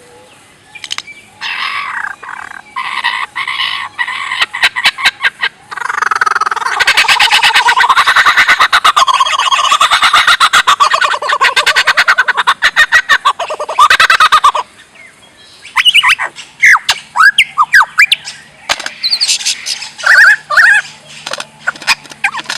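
Bird calls in bouts: short calls at first, then a long loud run of rapid calls through the middle, followed by separate sharp chirps that sweep up and down near the end.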